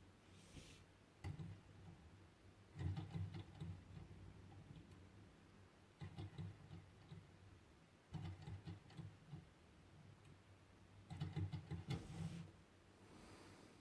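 Faint rapid clicking and rattling from a small hand-made Stirling engine's mechanism, coming in short clusters every two to three seconds.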